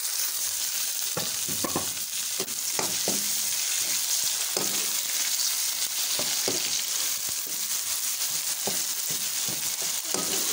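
Chopped onions and tomatoes sizzling in hot oil in a steel karahi while a slotted steel spoon stirs them. The spoon gives irregular short scrapes and knocks against the pan over a steady hiss.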